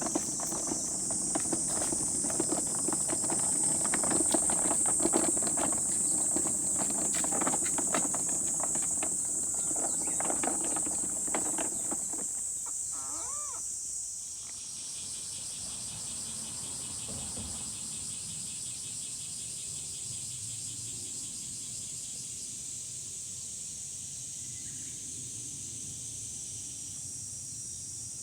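Steady, high-pitched drone of forest insects. For the first twelve seconds or so, busy knocking and rustling of things being handled sits over it, then stops, leaving mostly the insects.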